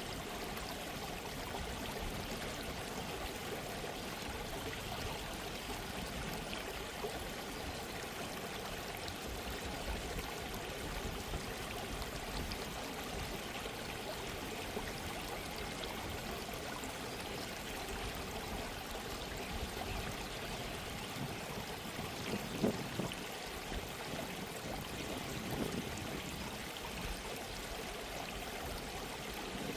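A gentle stream of running water, babbling steadily, with two brief, slightly louder splashes late on.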